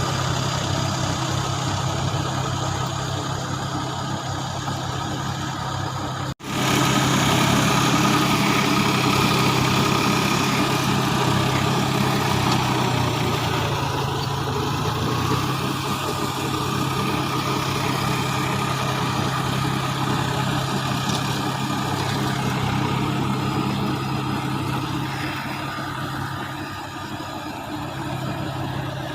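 Tractor diesel engine running steadily while working a rotavator. The drone is interrupted by a momentary cut about six seconds in and is slightly louder afterwards.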